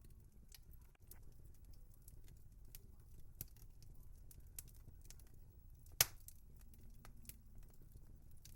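Wood fire crackling: scattered sharp pops and snaps over a low steady rumble, with one loud pop about six seconds in.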